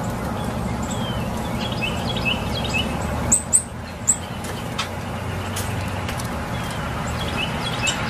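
Birds chirping: scattered short, quiet chirps, with a few sharp, high calls about three and a half and four seconds in, over a steady low hum.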